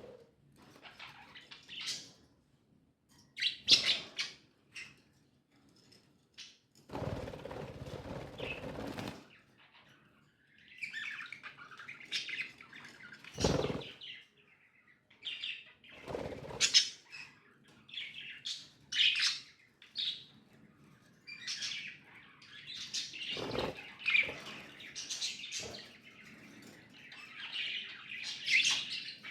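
Pet budgerigars chirping and twittering in many short high calls throughout, with a rustling stretch about seven seconds in and a few short knocks.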